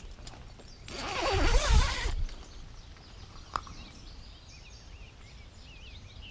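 Outdoor morning ambience with a steady low rumble. About a second in, a loud wavering burst lasts about a second. Faint short bird chirps follow through the second half.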